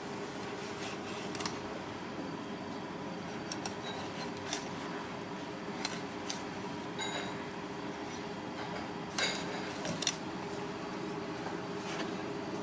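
Steady background hum with scattered light clinks and taps of dishes and utensils, a few of them briefly ringing.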